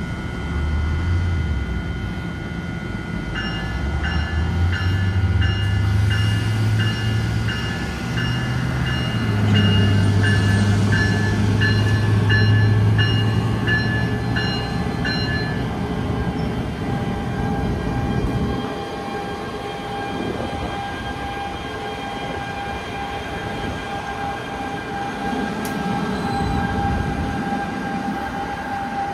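NJ Transit Bombardier ALP-45DP locomotive moving slowly past close by, with a low hum that steps up and down in pitch and stops about two-thirds of the way through, leaving the rumble of the train rolling on. A bell rings about one and a half times a second from about three seconds in until about sixteen seconds in.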